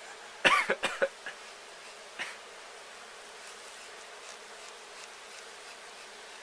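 Many honeybees buzzing steadily in the air around a hive that has just been smoked and torn open, a disturbed colony. A few short, loud knocks or handling sounds come in the first second and once more about two seconds in.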